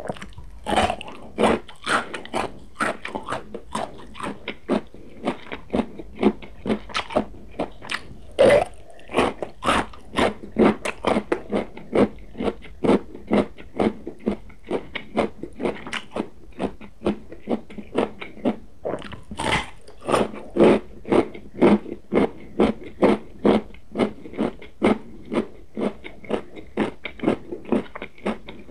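Close-miked biting and crunchy chewing of a piece of carrot. The chewing is steady, about two chews a second, with fresh, louder bites about a second in, about eight seconds in and about twenty seconds in.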